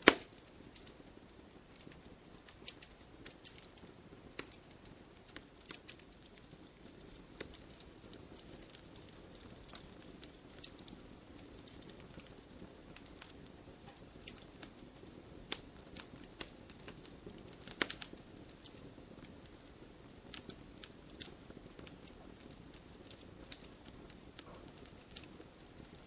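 Campfire crackling: irregular sharp pops and snaps, with a louder cluster about two-thirds of the way through, over a soft steady hiss of burning.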